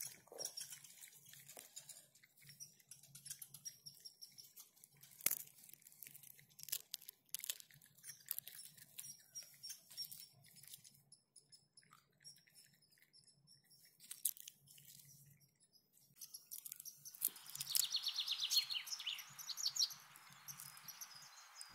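Raccoon cracking and chewing peanuts in the shell close to the microphone: scattered sharp cracks and crunches. Birds chirp faintly in the background, with a louder rapid trill about seventeen seconds in.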